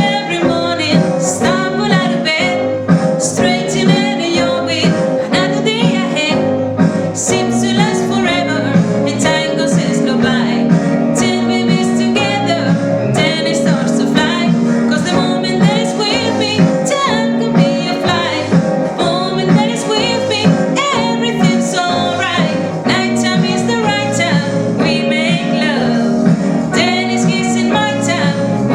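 Upbeat pop song with a steady beat, a girl singing along with it.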